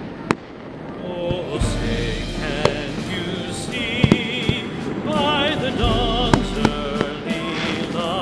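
Music with a wavering singing voice plays while fireworks go off: several sharp bangs, and two deep booms about a second and a half and six seconds in.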